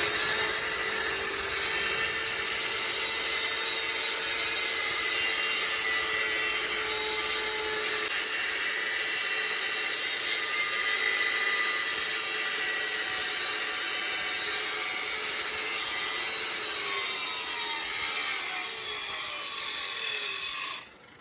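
Power tool working the steel of a truck axle: a steady, high grinding noise that holds for about twenty seconds, dips slightly in pitch, then cuts off suddenly near the end.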